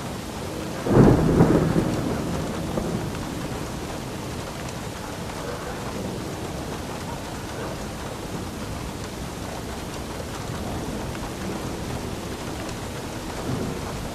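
Steady rain with a sudden crack of thunder about a second in that rumbles away over the next couple of seconds, then rain alone with a faint distant rumble near the end.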